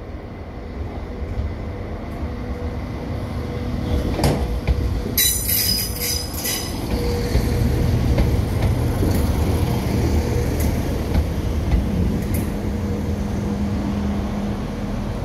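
Diesel train moving through the station with a low rumble that grows louder. A high-pitched metallic squeal comes about five to seven seconds in, and there are a few sharp clicks.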